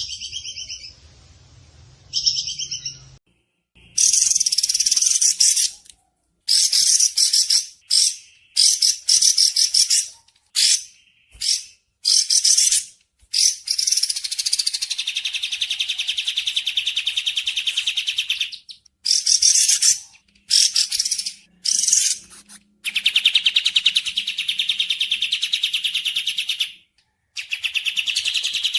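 High-pitched, rapid trilled calls of a small songbird, given in repeated bursts with short pauses. Longer unbroken trills come in the middle and near the end.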